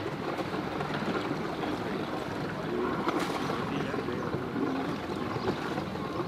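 Boat engines running steadily, a low hum under a continuous wash of noise.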